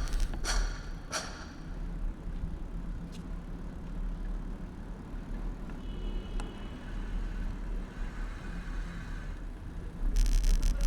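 Bicycle riding along city streets, heard from a handlebar-mounted camera: a steady low road and wind rumble with traffic sound, and the bike clattering over bumps for about the first second and again near the end.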